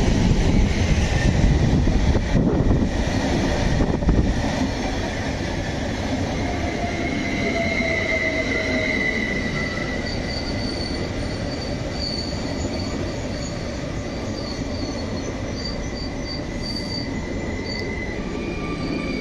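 Two coupled Stadler Flirt electric multiple units (ER160) rolling in along the platform and slowing to a stop. Wheels rumble on the rails for the first few seconds, then high brake and wheel squeal takes over, with one tone sliding slowly down and a higher one pulsing on and off.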